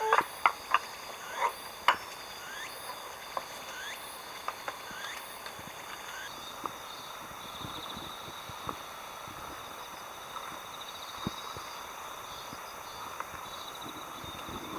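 Chorus of calling animals: steady high trilling throughout, with a string of short rising chirps and a few sharp clicks during the first six seconds.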